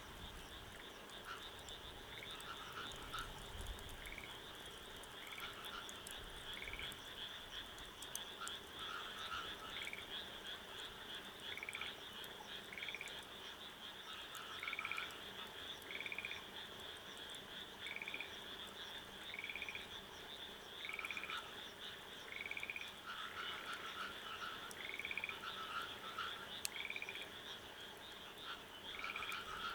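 Frogs calling: short trilled calls repeated every second or so over a steady, high-pitched chorus.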